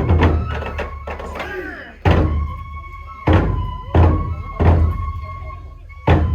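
Festival drum music for a kenbai sword dance: a deep drum struck about six times at uneven intervals, with steady metallic ringing tones sounding between the beats.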